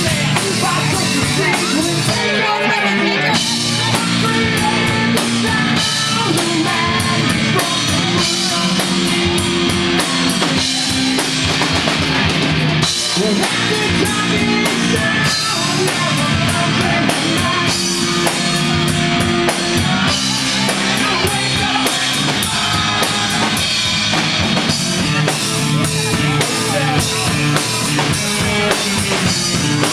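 Live rock band playing, with drum kit and guitar to the fore over a steady beat.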